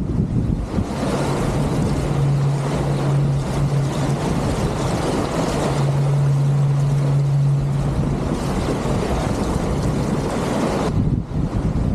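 Wind and water rushing past a racing catamaran sailing fast in strong wind. A steady low hum runs underneath for much of the time and fades out about two-thirds of the way through.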